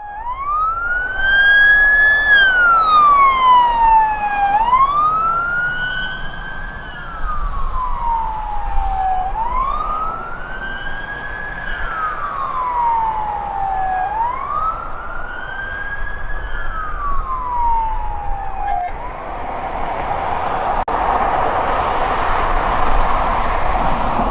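Emergency vehicle siren on a slow wail, rising and falling four times. It cuts off about three-quarters of the way through, giving way to a loud rush of traffic and engine noise.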